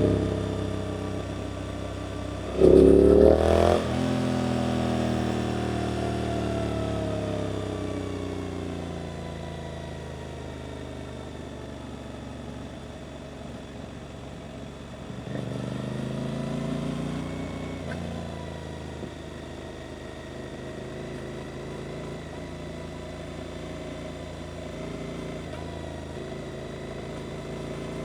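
Suzuki GSX-8S parallel-twin engine through an Arrows aftermarket exhaust. It revs hard in a short loud burst about three seconds in, then drops in pitch over several seconds as the bike slows. A second, smaller pull comes about midway, then it runs steadier and quieter.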